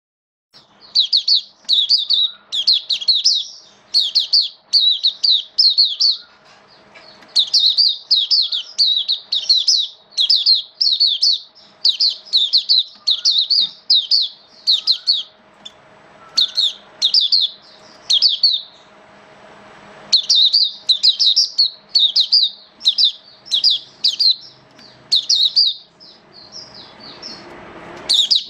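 A white-eye (mata puteh) singing: rapid, high-pitched warbling phrases repeated one after another with brief pauses. A faint steady hum lies underneath.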